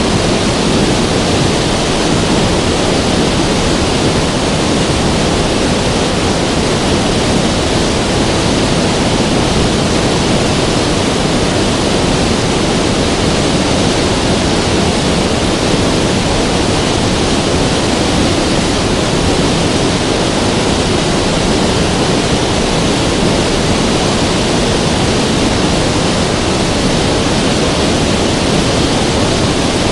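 River water rushing steadily, a loud, even flow with no breaks.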